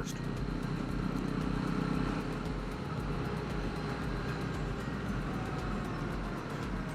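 Jawa 42 motorcycle engine running steadily on the move, with wind and road noise over the hum.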